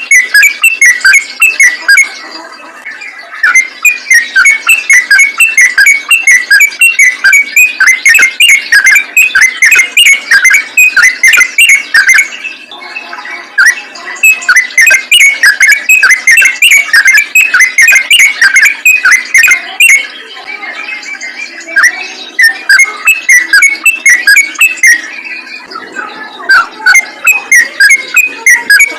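Trucukan (yellow-vented bulbul) singing a fast, unbroken run of short, sharp chirping notes in long bursts, with brief quieter breaks about two seconds in, around thirteen seconds in and for a few seconds past the twenty-second mark.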